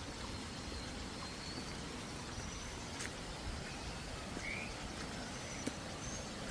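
Faint, thin, high bird calls, a few short whistles and one brief chirp, over a steady hiss of outdoor background noise. A sharp click comes about three seconds in.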